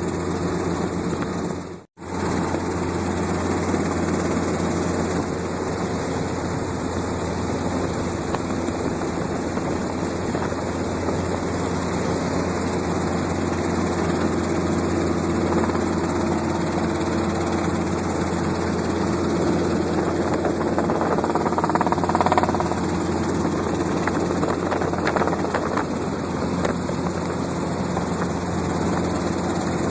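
Light helicopter in flight, its engine and rotors making a steady drone as heard from inside the cabin. The sound cuts out completely for an instant about two seconds in.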